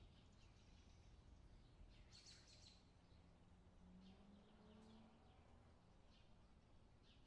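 Near silence: room tone with a few faint, short bird chirps, the clearest about two seconds in.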